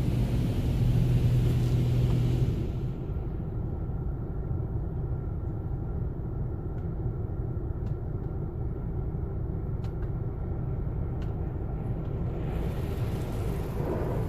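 Automatic car wash heard from inside the car: a hiss of spraying water with a steady low hum, which stops about two and a half seconds in, leaving a steady low rumble with a few faint ticks, and the hiss starts to come back near the end.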